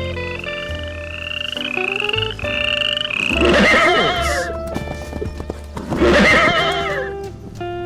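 A horse whinnies twice, about three and a half and six seconds in, with a wavering call that falls in pitch. Calm background music plays underneath. Before that, a short rising call repeats about twice a second.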